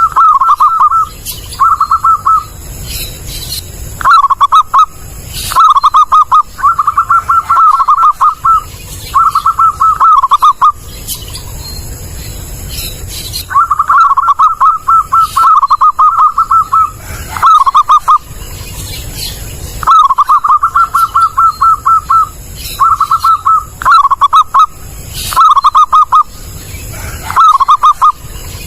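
Zebra dove (perkutut) cooing loudly: about a dozen phrases of quick, rippling coos, each lasting from half a second to a few seconds, with short pauses between them.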